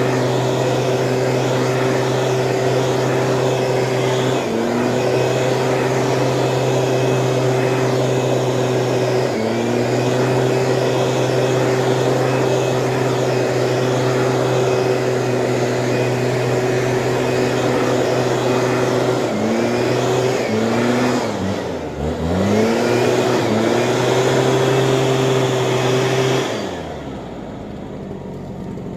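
Small Stihl petrol engine on a motorised weed sprayer running steadily at high speed. It dips briefly twice, then about twenty seconds in it slows and picks up again several times. Near the end it winds down sharply and goes much quieter.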